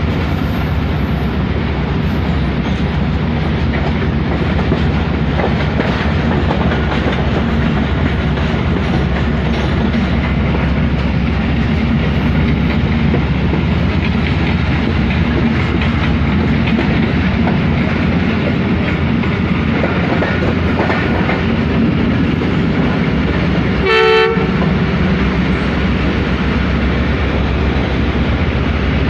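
Steady rumble and clatter of a passenger train's wheels on the rails, heard from the open window of a moving coach with rushing air. Near the end a diesel locomotive horn gives one short blast.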